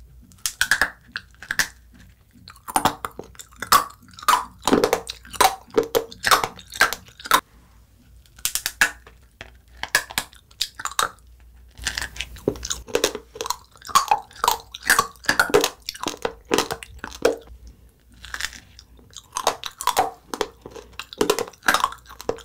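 A mouth biting and chewing the bristles off an edible hairbrush: bursts of sharp crunches and chewing, with short pauses between bites.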